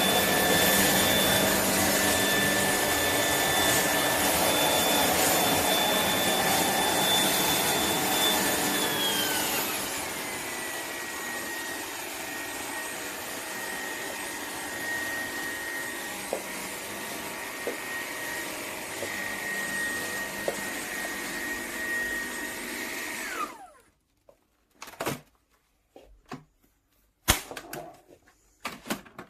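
Shark PowerDetect cordless stick vacuum running with a steady high motor whine. About a third of the way through it steps down to a lower speed. Near the end it is switched off, the whine falling away quickly, followed by a few clicks and knocks of handling.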